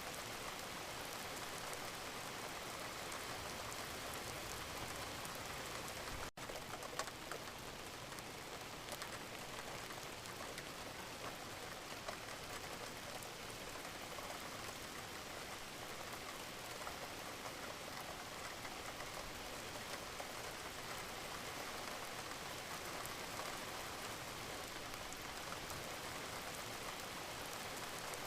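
Wood fire crackling and hissing steadily in a fireplace, with a few slightly louder pops. The sound drops out for an instant about six seconds in.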